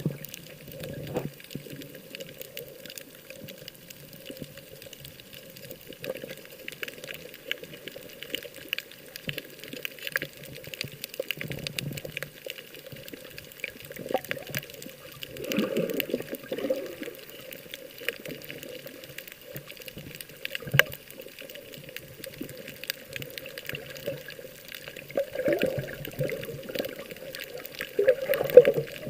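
Water sloshing and gurgling, with small clicks and a few louder surges.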